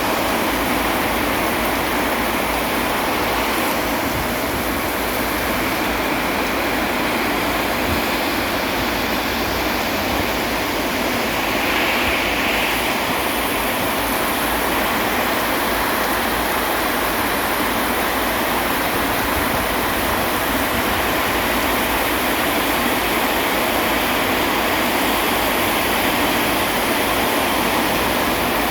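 Steady heavy rain: a continuous, even hiss of falling water, with no thunder. A faint higher-pitched sound swells briefly about twelve seconds in.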